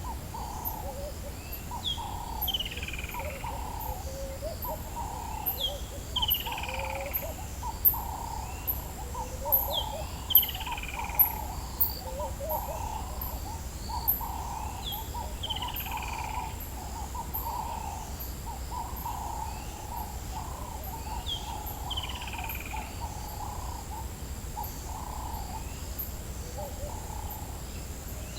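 Dawn chorus in the African bush: many low bird calls, with a whistled phrase that falls in pitch every five to seven seconds and short high chirps about once a second, over a steady insect drone.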